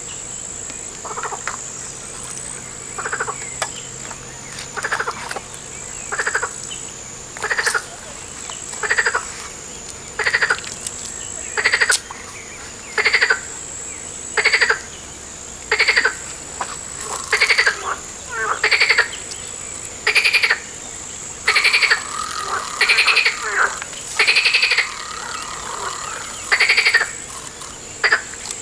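A frog calling over and over, each call a short rattling train of rapid pulses, repeating about every second and a half and growing louder over the first ten seconds. A steady high-pitched insect trill runs underneath.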